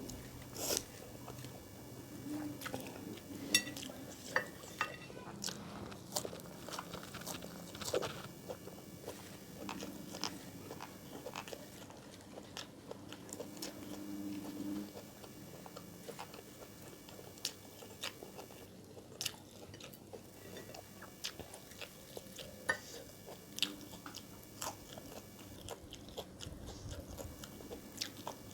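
A person eating close to the microphone: irregular sharp crunching bites and wet chewing of crunchy food such as raw vegetables and fried chicken.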